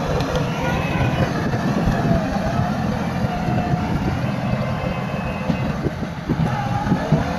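Bulldozer working: a steady diesel engine drone with a thin, wavering squeal from the tracks running over it, and a few sharp knocks about six to seven seconds in.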